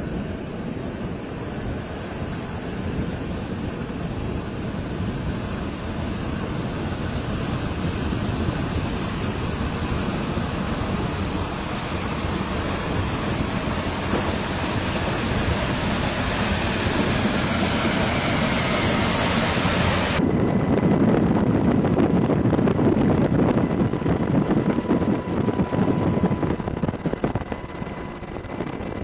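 High-speed powerboat engine running loud and steady, with a thin high whine that rises through the middle. The sound changes abruptly about two-thirds of the way in, then runs louder.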